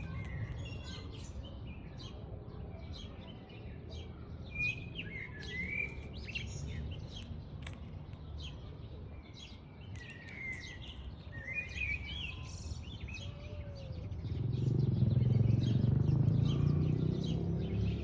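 Several birds chirping, with many short, overlapping calls throughout, over a low rumbling background noise that grows louder about fourteen seconds in.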